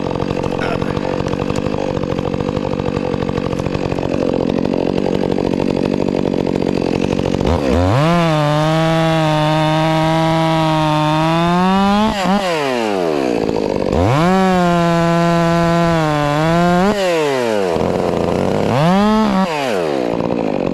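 Stihl MS 400 C two-stroke chainsaw idling, then opened up to full speed three times, dropping back to idle after each: a run of about four seconds, one of about three seconds, and a brief burst near the end.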